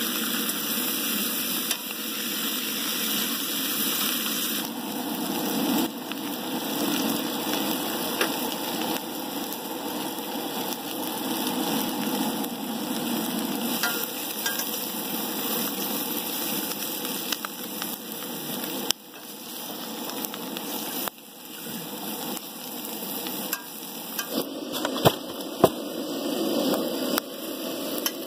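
Sliced potato, onion and green pepper frying in bacon fat in a cast iron skillet, a steady sizzle, stirred with a metal fork that scrapes and clicks against the pan. A few sharper clinks of the fork come near the end.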